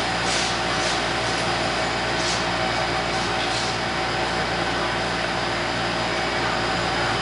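SEPTA M4 subway train at the station, running with a steady hum and rush of machinery that holds at one level, with a few short, faint hisses in the first few seconds.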